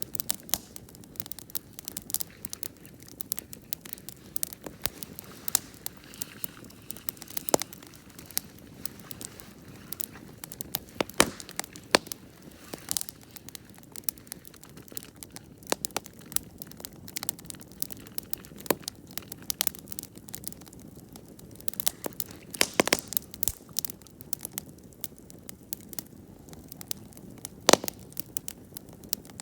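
Wood campfire crackling, with frequent irregular snaps and pops over a soft steady hiss of burning.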